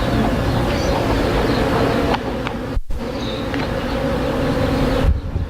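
A mass of honeybees flying and buzzing in a steady, dense drone; the sound cuts out for a moment just before three seconds in.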